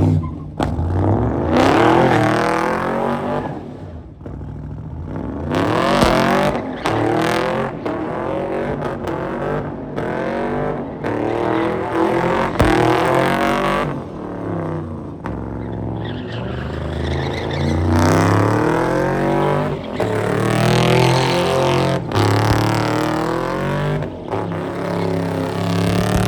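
Performance car engines revving hard at high rpm in repeated rising and falling sweeps, typical of drift cars at full throttle, with abrupt breaks between passes.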